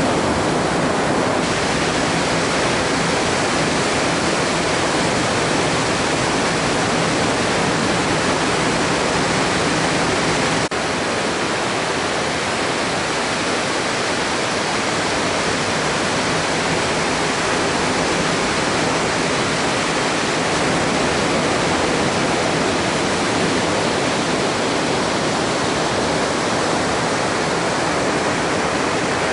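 Steady roar of breaking ocean surf. About a third of the way through it shifts abruptly to slightly less low rumble, as at a cut between clips.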